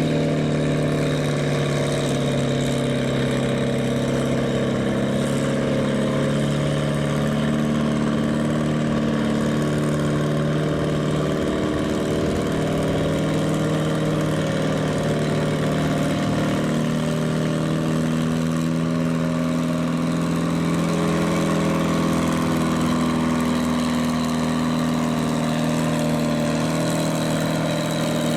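Farm stock pulling tractor's diesel engine running steadily and loudly, its pitch holding nearly even with only slight wavers.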